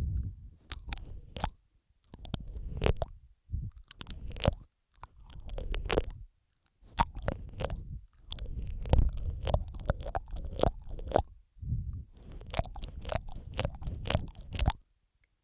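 Close-miked ASMR mouth sounds: wet clicks, smacks and lip-and-tongue squelches in bursts of a second or two with short pauses, stopping abruptly near the end.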